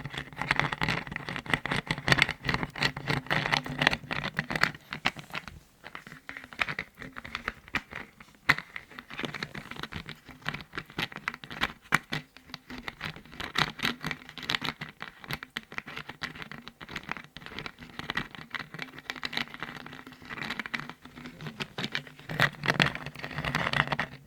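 Rapid tapping and scratching on lids: a dense run of quick taps and scrapes, thinning out briefly about five seconds in.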